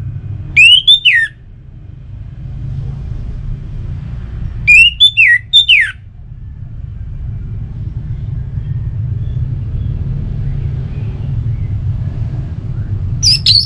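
Orange-headed thrush (anis merah) singing: three short, loud phrases of swooping whistles with high scratchy notes, about half a second in, around five seconds in and at the very end, over a steady low rumble.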